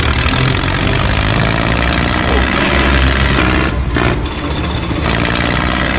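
Mini tractor engine running steadily, with a brief dip about four seconds in.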